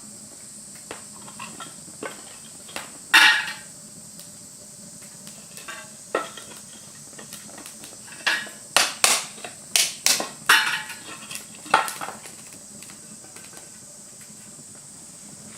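Cooking utensils knocking and scraping against cookware: scattered sharp clinks, with a quicker run of them a little past halfway, over a faint steady high hiss.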